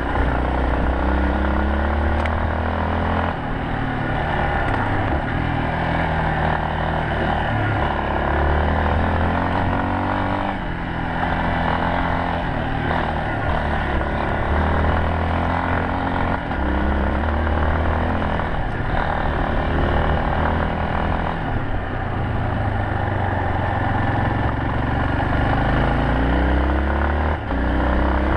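Yamaha Serow 250's single-cylinder four-stroke engine running under way, its pitch climbing and dropping again and again as the revs change, over a steady rushing noise.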